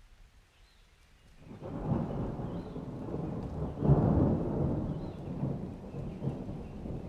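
Thunder rumbling: after a quiet start it swells in about a second and a half in, grows to its loudest around the middle, then slowly dies away, with the hiss of rain beneath it.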